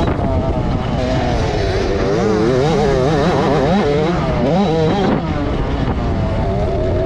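Motocross dirt bike engines revving hard, several at once, their pitch rising and falling quickly over and over as the riders work the throttle.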